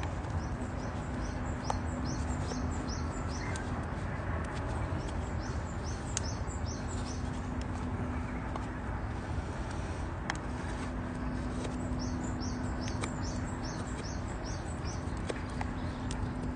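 A bird calling in runs of short, quickly repeated high notes, several runs in a row. Underneath is the low steady rush of a campfire with an occasional sharp crackle.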